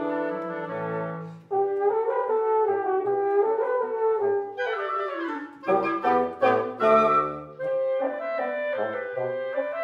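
Wind quintet of flute, oboe, clarinet, French horn and bassoon playing live. The music breaks off briefly about a second and a half in, then goes on, with short detached notes in the middle.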